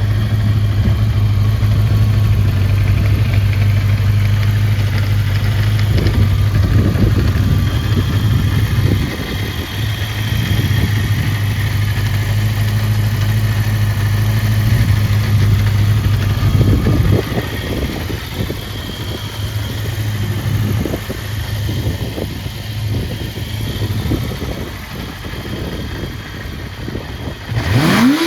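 Suzuki GSX400F 398 cc four-cylinder engine with an aftermarket muffler, idling steadily, its note unsettled in places partway through. Near the end the throttle is blipped: a quick rev up and back down.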